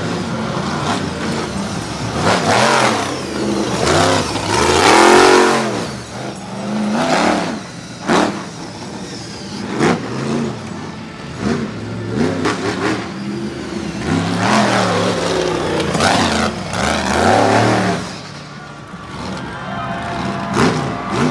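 Monster truck engine revving hard in repeated surges, its pitch climbing and dropping several times, with two sharp bangs about 8 and 10 seconds in.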